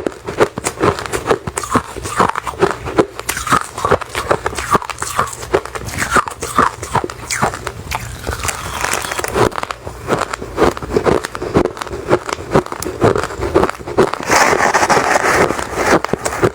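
Close-miked chewing of refrozen crushed ice: many sharp crunches in quick succession, with denser grinding stretches about halfway through and again near the end.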